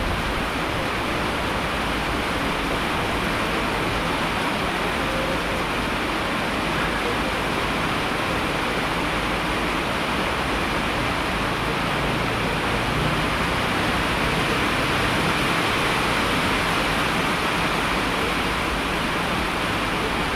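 Steady rushing of falling water, as heavy rain or a waterfall gives: an even, continuous hiss with no single drops or breaks standing out.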